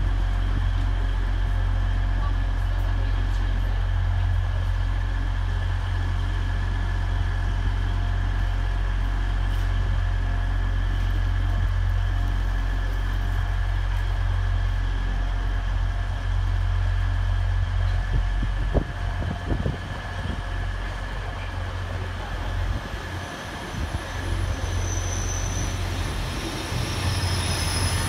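Trains at a station platform: a steady low rumble with a held hum from a diesel train standing at the platform. In the last few seconds a train comes in alongside with a thin high squeal of its brakes.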